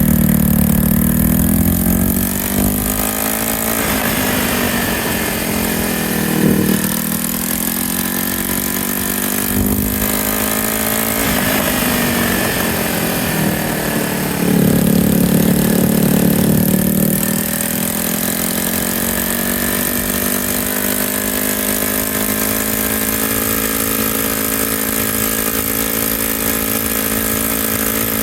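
Yamaha TW200's single-cylinder four-stroke engine under way, its pitch rising and falling several times with the throttle, then holding steady in the second half, with wind noise.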